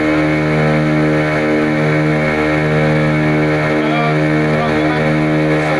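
Boat engine running steadily at an even, unchanging pitch while under way.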